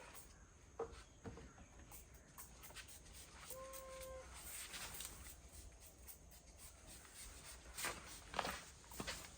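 A few short, flat calls from an animal, the longest about 4 seconds in, over scattered brief clicks and short hisses.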